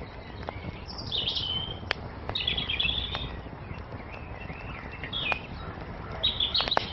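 Small songbirds chirping in four or five short, quick phrases over a steadily crackling wood fire, with scattered sharp pops and snaps from the burning wood.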